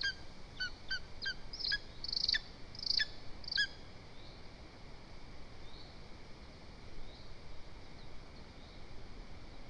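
Lesser spotted eagle at the nest giving a series of short, high calls, about two a second, which stop about four seconds in; a few faint calls follow.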